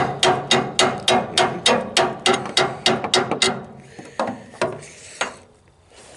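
Hammer blows on steel, ringing with each strike: a fast run of about four blows a second, then three slower, spaced blows about four to five seconds in. The tool in use is too light for the job, which is why the man wants a real hammer.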